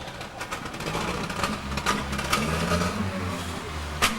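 A motor engine running steadily with a low rumble, with scattered clicks and one sharp click near the end.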